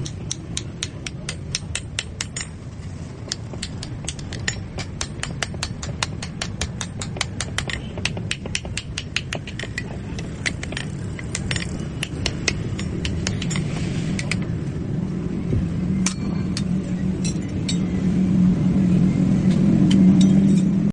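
Rapid, evenly paced hammer strikes on metal, about four to five a second, thinning out to occasional blows about halfway through, over a steady low rumble that swells near the end.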